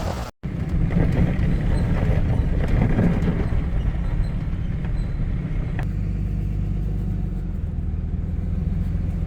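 Pickup truck driving at a steady pace, with a continuous low engine and road rumble. The sound cuts out for a moment just after the start.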